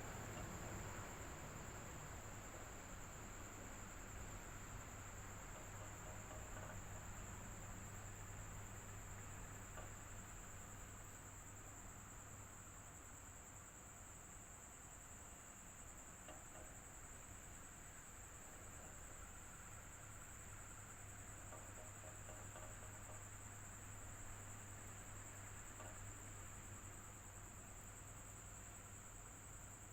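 Electric fan running steadily and faintly, with a constant low hum and a steady high-pitched tone above a soft airy hiss.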